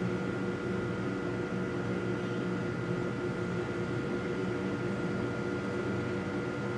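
A steady mechanical hum with several held tones, unchanging throughout.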